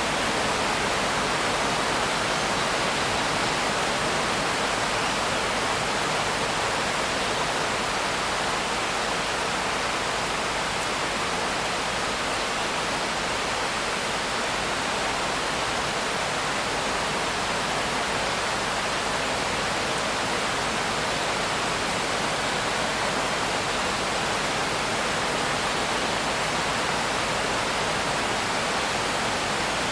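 Steady rain, an even hiss with no single drops, thunder or changes standing out.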